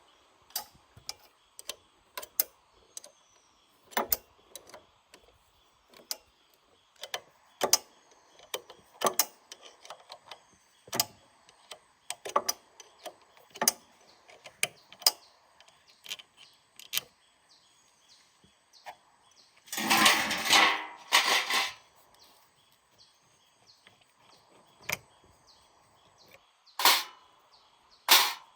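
Irregular sharp knocks and clicks, one every second or so, with a louder rasping, scraping burst in two parts about twenty seconds in. Faint bird chirps sound behind them.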